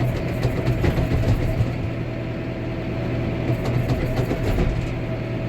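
Diesel tractor engine running steadily, heard from inside the cab.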